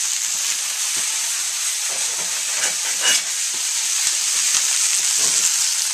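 Meat and chopped greens frying in a skillet on a gas burner, a steady sizzle, with a couple of faint knocks about one and three seconds in.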